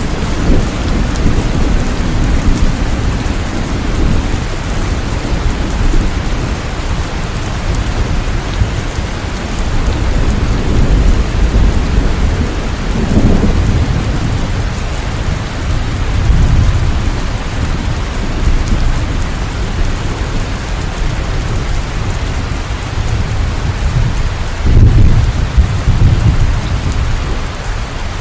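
Steady rain pouring, with low rumbles of thunder swelling up several times, the loudest near the end.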